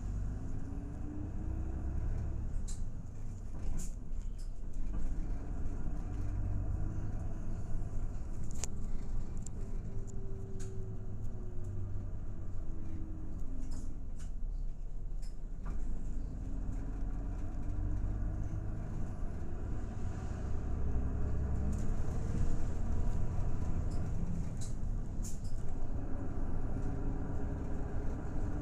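Route bus heard from inside the cabin while driving. The engine's note climbs in pitch, drops back and climbs again several times as it accelerates and eases off, over a steady low road rumble, with scattered rattles and clicks from the interior.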